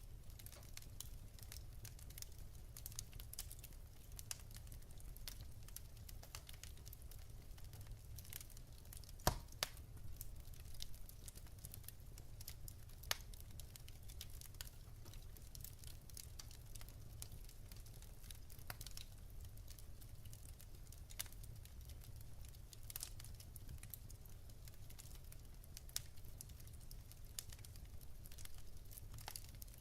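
Wood fire burning in a fireplace: a low steady rumble with frequent small crackles and snaps of burning logs, and a few louder pops, the sharpest about nine seconds in.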